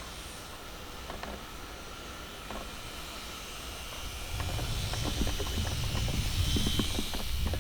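Wind buffeting the microphone outdoors over a steady hiss. The rumble grows louder about four seconds in, with scattered light knocks and a faint high whine near the end.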